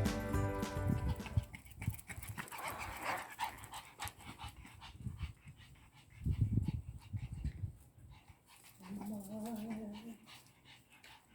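Pekingese dog making short noisy nasal and breathing sounds, then a brief wavering whine near the end.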